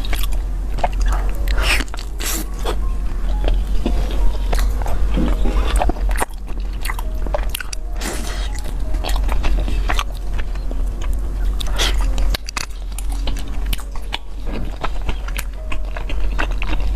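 Close-miked eating: chewing and biting of food, with a dense run of irregular small clicks and smacks throughout.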